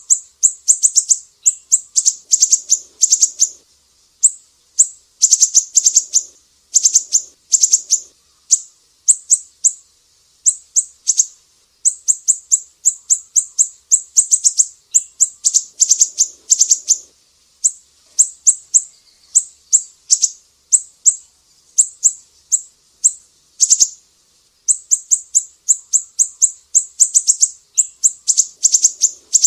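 Sumatran siri-siri songbird singing rapid trains of sharp, very high chirps. The song comes in bursts of one to two seconds with short pauses between them.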